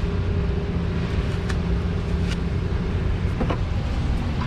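A motor engine idling steadily in the background, a low constant hum, with a few faint clicks and taps.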